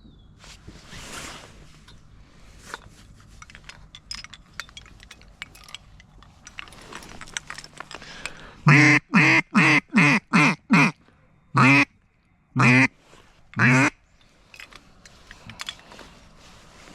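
Mallard duck call blown close by: a run of six quick quacks followed by three slower, spaced quacks, after several seconds of light rustling and clicks.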